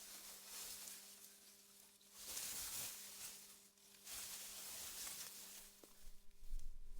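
Synthetic wind blowing through meadow grass, a soft hiss rising and falling in gusts about every two seconds, over a faint steady hum. A low rumble comes in near the end.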